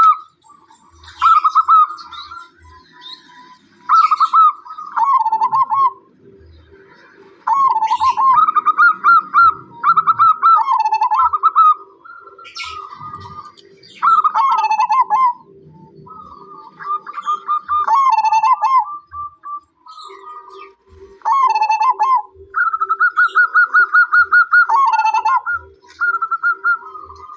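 Zebra dove (perkutut) calling over and over in short phrases of rapid, stuttering cooing notes, with a fainter low pulsing coo underneath in two stretches and light higher chirping.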